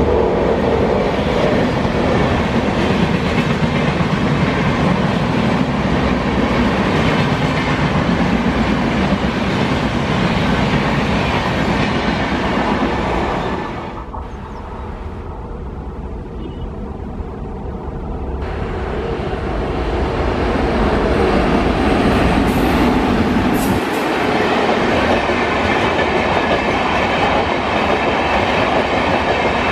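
Uday Express train running on the track, wheels clattering over rail joints in a continuous rumble. The sound drops and goes duller about fourteen seconds in, then swells back up a few seconds later.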